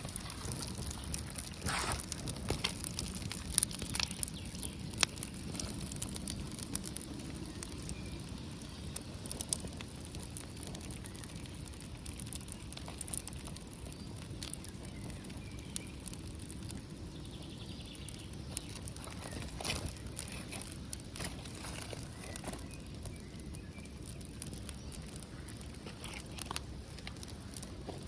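Small fire of birch bark and twigs crackling, with scattered sharp pops and ticks over a low steady rush.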